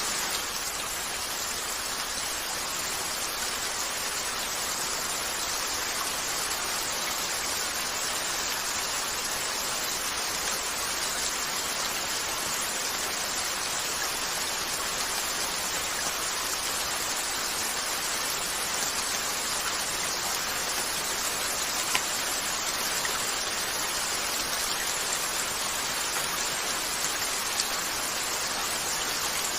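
Steady rain falling on a window, with a few faint, sparse crackles from a wood fire.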